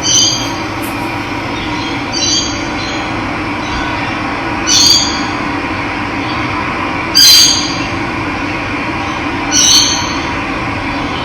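A bird giving a short, shrill call five times, about every two and a half seconds, over the steady rush of running water.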